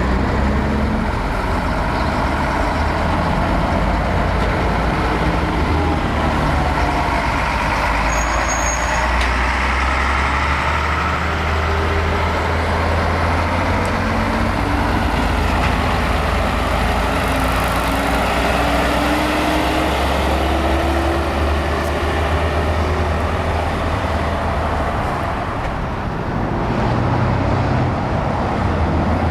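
Heavy diesel trucks running close by with a steady low rumble; around two-thirds of the way through, one engine's note rises as it accelerates.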